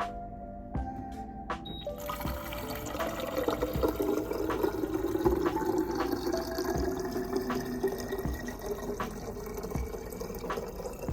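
Liquid running steadily into a container, starting about two seconds in, with a faint rising pitch as it fills, over background music with a steady beat.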